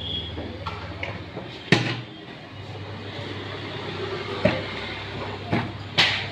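Several sharp knocks and clinks of Maruti Swift Dzire gearbox parts being fitted together during reassembly, the loudest about two seconds in, over a steady low hum.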